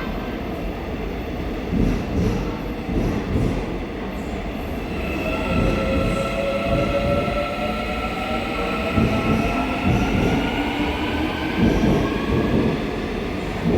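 Seoul Subway Line 4 electric train running along the platform, with wheel and rail rumble and irregular clacks. From about five seconds in, its traction motors set up a whine of several tones that slowly rises in pitch as the train accelerates.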